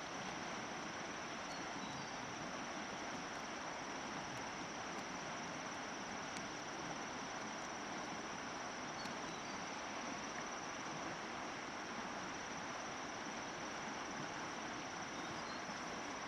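Steady outdoor ambience: an even rushing noise with a constant high-pitched insect drone over it, and a few faint chirps.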